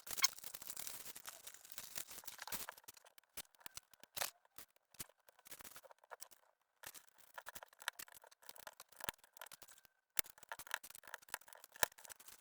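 Small plastic Lego pieces being handled and pressed together: irregular sharp clicks, dense over the first couple of seconds, then scattered with short pauses.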